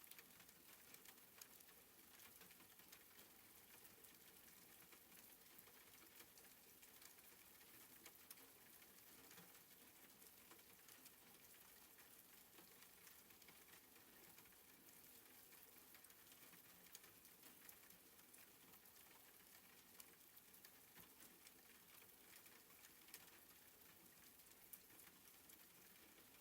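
Soft, faint rain falling steadily, an even hiss dotted with small drop ticks.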